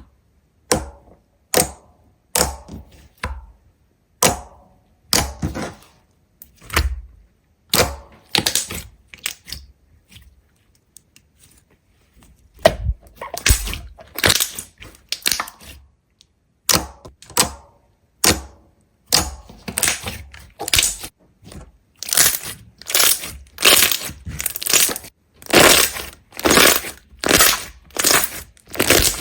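A series of sharp cracks and crunches, spaced out at first, then, after a pause of about three seconds midway, coming faster and faster until about two a second.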